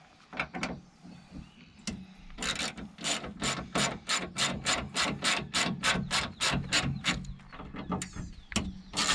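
Socket ratchet clicking rhythmically, about four or five clicks a second, as an 8 mm socket turns a bolt on the Jeep's antenna base plate; the clicking starts a couple of seconds in.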